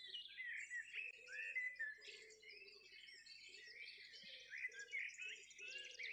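Faint birdsong in the background: small birds chirping in many quick, short notes that rise and fall.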